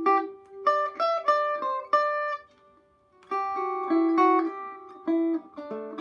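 Electric Vega five-string banjo from about 1936–37, fingerpicked with finger picks in a melodic run of single notes that mixes across-the-strings and up-and-down-the-string scale fingering. The notes stop briefly a little before halfway and then the run picks up again.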